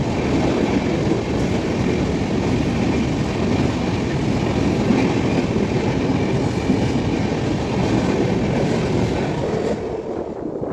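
Indian Railways express train passing close by at speed: a steady rumble with wheels clattering over the rail joints. The higher rattle drops away about ten seconds in as the last coaches go by.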